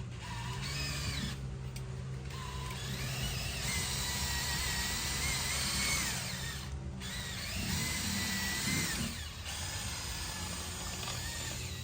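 DeWalt drill spinning a rotary dryer-vent cleaning brush on its rods inside the vent duct, running in spells with three short stops and its motor pitch rising and falling. The brush is at the far end of the vent line.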